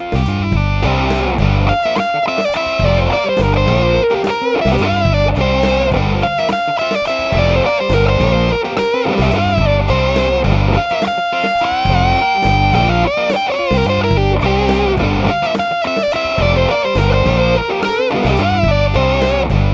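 Electric guitar played through an EarthQuaker Devices Sound Shank germanium fuzz pedal: a fuzzy riff of choppy chords with short breaks, and a held lead note bent upward about twelve seconds in.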